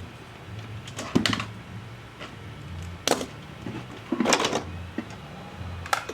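Hand tools and small parts clicking and scraping against a laptop's case and internals during disassembly and cleaning, in four short bursts.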